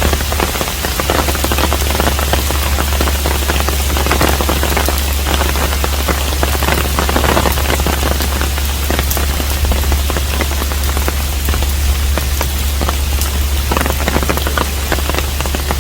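Steady rain falling on a hanok, a dense even patter of drops with a constant low rumble underneath.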